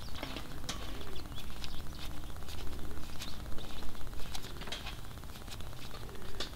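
Outdoor background of small birds chirping in short calls, over a low steady rumble.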